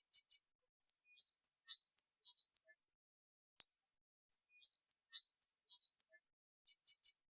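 Kemade bird singing: clear, high whistled notes that rise and fall in quick clusters, broken up by short buzzy chips, three of them near the start and three again near the end.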